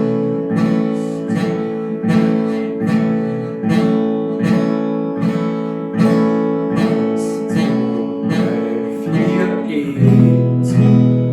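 Acoustic guitar strummed in a slow, even beat, about one and a half strokes a second, working through the beginner chord sequence of D, A and E major. About ten seconds in it changes to a chord with a deeper bass, the E major.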